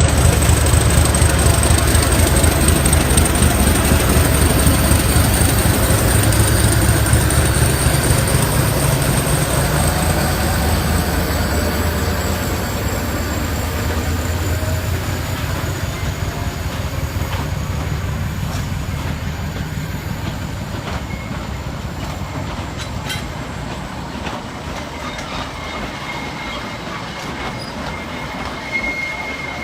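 Train running on the rails, with a low rumble and a thin high whine from the wheels, getting gradually quieter.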